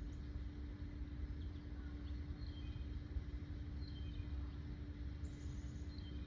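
Several faint, short high bird chirps at irregular intervals, with a brief falling high note near the end, over a steady low rumble and a constant hum.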